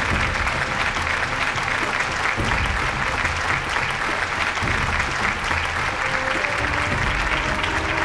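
Audience applauding steadily, with background music underneath.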